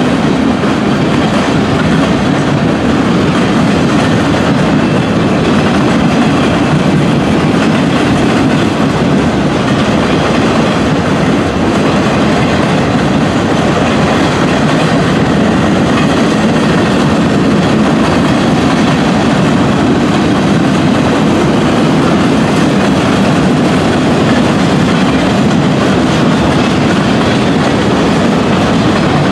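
Freight train cars rolling past, a loud steady rumble of steel wheels on the rails.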